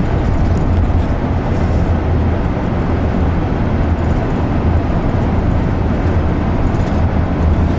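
Road noise inside a moving vehicle's cabin: a steady low drone of engine and tyres.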